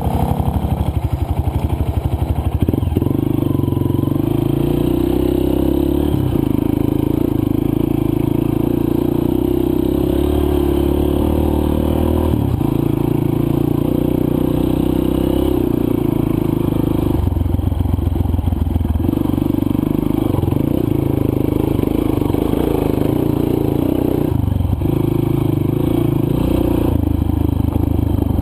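Single-cylinder four-stroke dirt bike engine running on a trail ride. Its pitch steps up and down every few seconds with throttle and gear changes.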